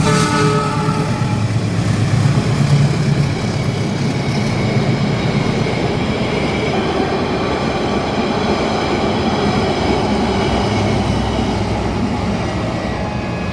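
Passenger train passing at speed: a steady rumble of wheels on the rails. The locomotive's horn fades out in the first second.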